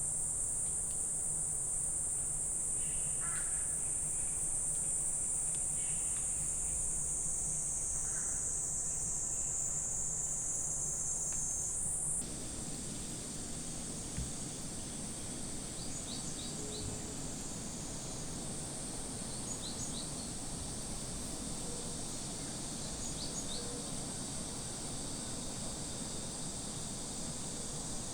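Steady high-pitched insect chorus in a summer forest, with a few short, faint bird calls over it. About twelve seconds in, the chorus drops suddenly in pitch and level while a low rumble rises.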